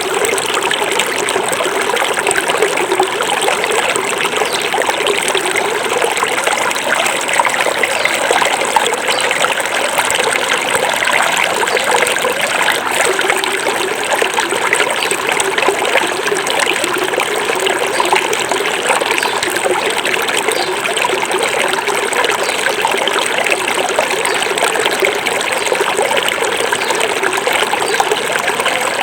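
Small forest stream flowing and trickling over stones, a steady babble.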